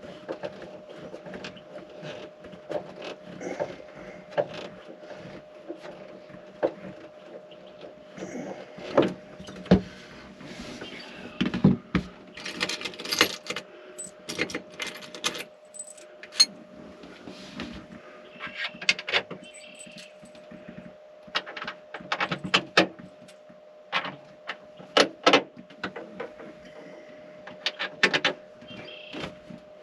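Hand tools and small metal hardware being handled: irregular clinks, taps and rattles, some sharp and loud, over a faint steady hum.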